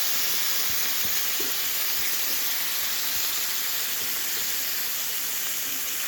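Burger patties sizzling steadily in a frying pan, with a few faint low knocks in the first two seconds.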